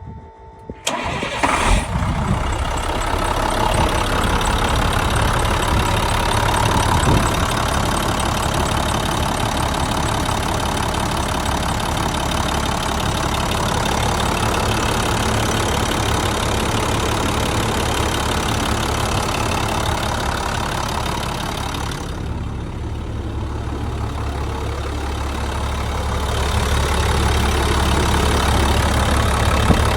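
International chip truck's engine cold-started: it cranks and catches about a second in, then settles into a steady idle. Past the two-thirds mark the sound turns duller and deeper for a few seconds.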